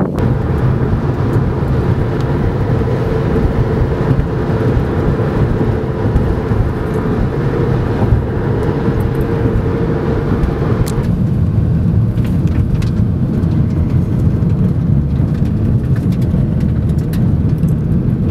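A car driving, with steady engine and road rumble. The higher-pitched part of the noise drops away suddenly about eleven seconds in.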